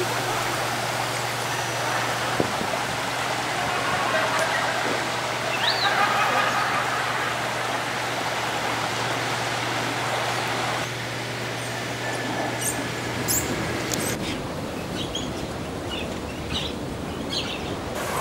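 Outdoor ambience: a steady rushing background noise with a low hum. About three-quarters of the way in it gives way to a quieter background with a few short bird chirps.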